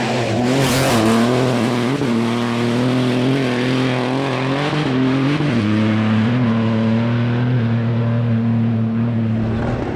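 Rally car engine running at fairly steady revs, the pitch wavering slightly and stepping down about five and a half seconds in. A short hiss comes about a second in.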